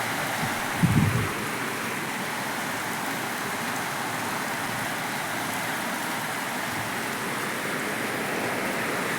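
Heavy rain falling steadily, an even hiss of rain. A brief low thump about a second in.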